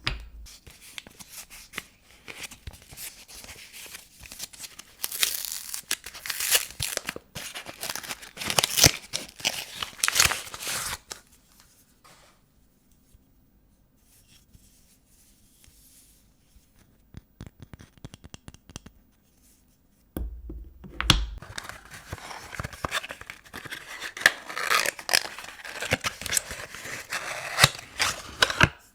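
Wrapping being torn and crinkled off bars of vintage soap, in two long stretches of dense tearing and rustling with a quieter gap in the middle.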